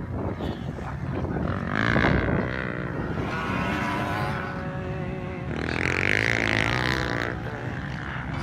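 Two-stroke motocross motorcycle engines revving up and down as bikes ride the track, rising to a loud peak about two seconds in and again around six seconds in.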